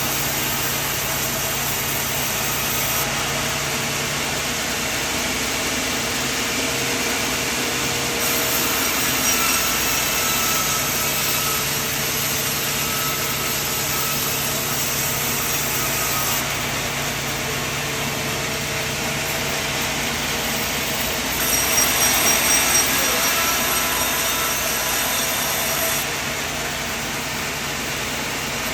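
Portable sawmill running: a steady engine drone with the saw cutting through wood. The sound shifts abruptly several times, and a louder, pulsing stretch comes about three-quarters of the way through.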